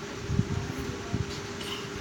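Steady mechanical hum, like a running fan, with one even tone and irregular low rumbling underneath.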